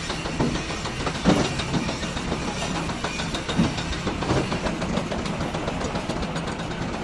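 Heavy engine running steadily, with a few knocks about a second in and again around three and a half and four seconds in.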